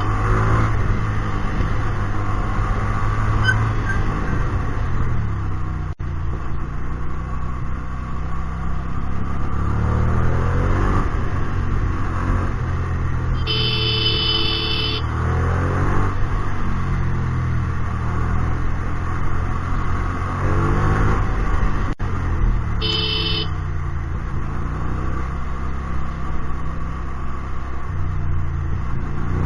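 Hyosung GT250R's 250 cc V-twin running through a Solfer aftermarket exhaust while riding in traffic: the revs rise and fall several times as it accelerates through the gears and eases off. Twice a short, steady, high tone sounds over it.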